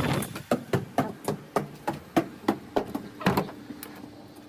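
A quick run of sharp knocks, about three a second, growing fainter toward the end with one louder knock just past the middle.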